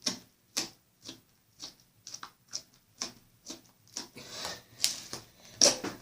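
Slime being squeezed and stretched by hand, popping and clicking about twice a second.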